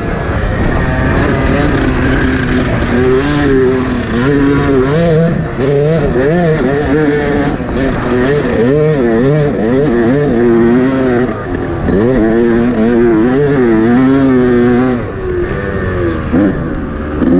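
Yamaha YZ125's single-cylinder two-stroke engine revving hard and backing off again and again, its pitch climbing and dropping about once a second as the rider works the throttle and gears.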